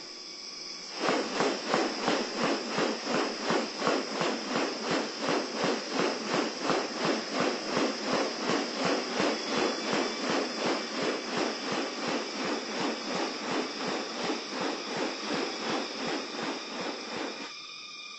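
Rapid, even rasping pulses, about three a second, over a steady high-pitched insect drone; the pulses start about a second in and stop near the end.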